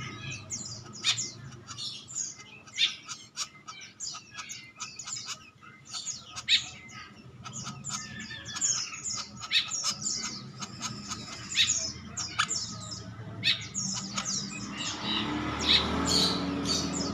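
Male woodpecker calling: many short, sharp, high-pitched calls in quick irregular series throughout, with a low rumble rising near the end.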